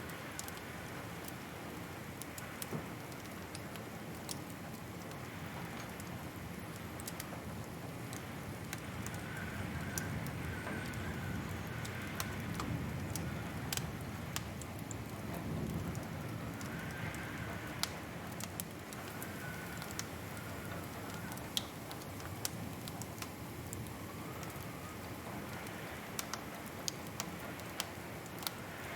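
Wood fire crackling: scattered sharp pops and snaps over a steady hiss, with a faint wavering whistle now and then.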